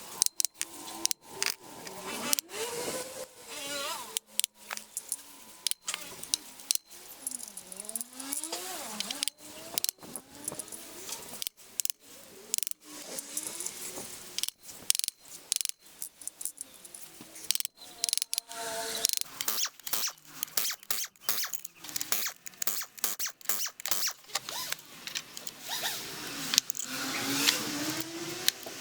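Sped-up timelapse workshop sound of metal tools and engine parts being handled: rapid clinks, clatter and ratchet clicks with short squeaks, chopped into many short pieces.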